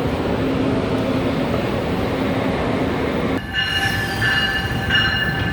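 Commuter train pulling into the station platform: a loud, steady rumble, then from about three and a half seconds in a steady high squeal of wheels or brakes in several held tones.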